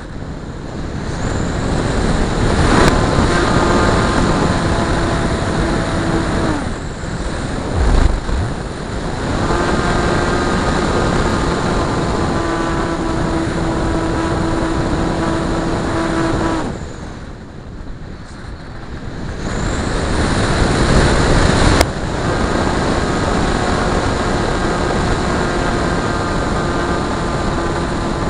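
Multiplex Blizzard electric RC model plane's motor and propeller whining steadily in flight. The whine fades briefly about a quarter of the way in, then drops away for a couple of seconds past the middle before returning, as the throttle or the plane's distance changes.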